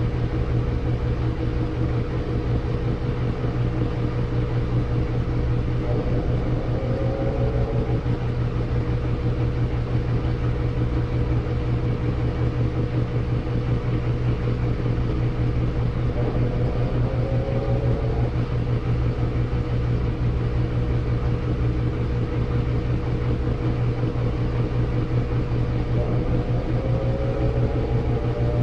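Samsung washing machine running its spin cycle: a steady motor-and-drum hum with a short rising whine that comes back about every ten seconds.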